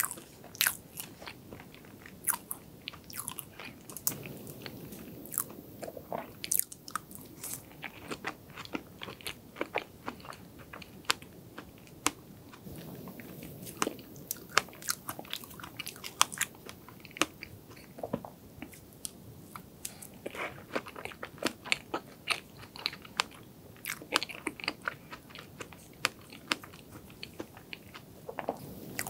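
Close-miked eating sounds of cake being chewed: many irregular sharp, wet mouth clicks with some crunching.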